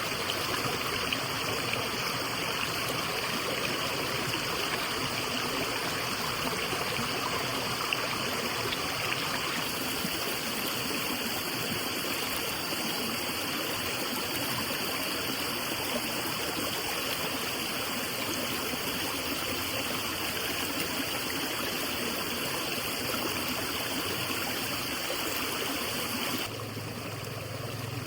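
Steady rushing of flowing water, like a forest stream. The sound shifts slightly about a third of the way in and turns quieter near the end.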